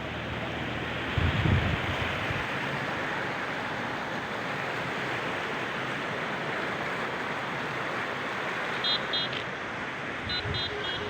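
Steady rushing hiss of water, as of heavy rain or floodwater. A few short high-pitched beeps come in quick pairs near the end.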